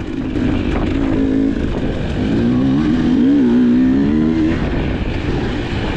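Dirt bike engine running on a trail ride, its pitch rising and falling with the throttle, over a rough low rumble.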